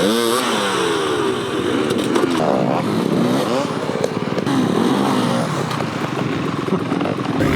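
Several off-road motorcycle engines revving, their pitch climbing and dropping again and again as the riders work the throttle.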